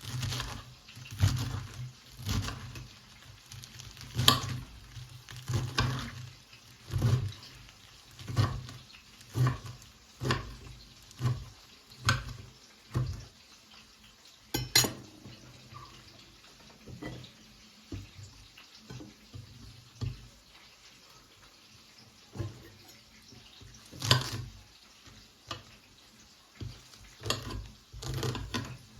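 Kitchen clatter: dishes, pots and utensils knocking and clinking at an irregular pace of about once a second, with a few sharper clanks.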